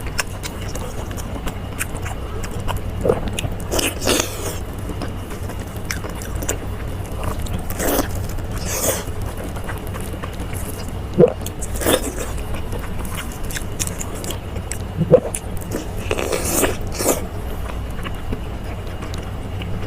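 Close-miked biting and chewing of intestines, irregular mouth noises over a steady low hum, with two sharper bites about eleven and fifteen seconds in.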